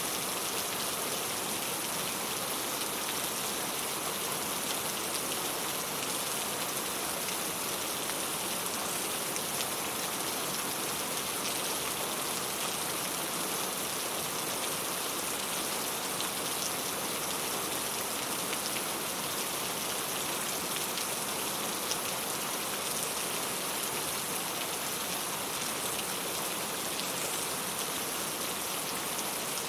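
Steady rain falling on a clay tile roof, a constant patter of many drops with no break or change in strength.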